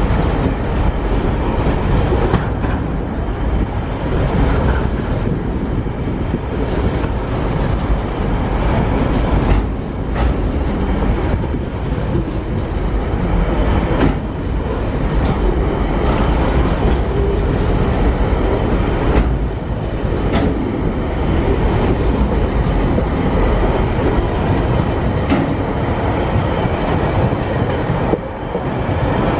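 Freight train of container flat wagons rolling past close by: a steady rumble of steel wheels on rail, with a sharp clack every few seconds.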